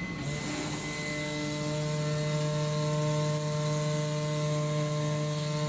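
Comagrav Digi Corsa CNC flatbed cutter running its pneumatic oscillating tool through rubber sheet: a steady low buzz with overtones that settles in just after the start, over a constant hiss of air.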